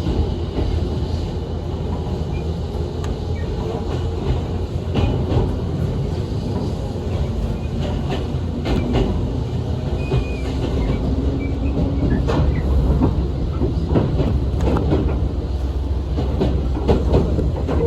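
JR Kyushu local train running on the line, heard on board: a steady rumble with wheels clicking over rail joints.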